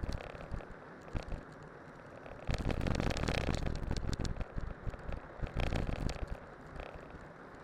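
Studded bicycle tyres rolling and crackling over snow and ice on a descent, with a louder, rougher stretch of crunching and rumble from about two and a half seconds in to about six seconds in.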